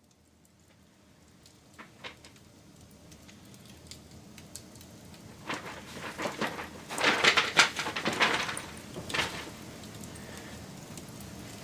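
Wood campfire crackling: a few sharp pops over a faint hiss, then a dense burst of loud crackling and snapping about halfway through, settling back into a steady low hiss.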